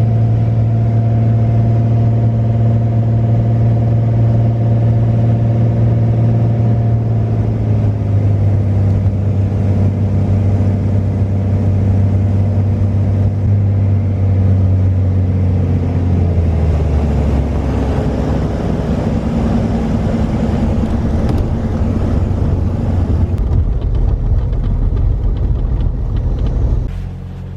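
Beechcraft Bonanza A36's six-cylinder piston engine running steadily, heard from inside the cabin. About halfway through the pitch slides down to a lower rumble as the power comes back, and the sound drops away suddenly near the end.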